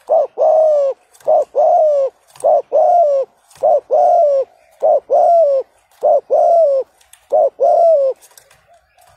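Spotted dove (cu gáy) giving its rapid 'gù' coo. The same two-note phrase repeats about once a second, a short coo followed by a longer one that drops at the end, about eight times before it stops near the end.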